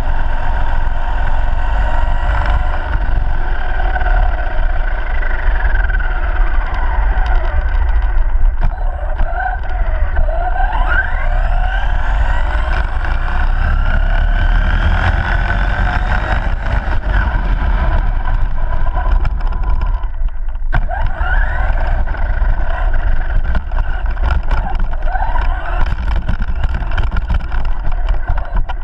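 Radio-controlled ARRMA Granite BLX monster truck's brushless electric motor whining, the pitch rising and falling again and again as it speeds up and slows, over a steady low rumble. The sound drops away briefly about twenty seconds in.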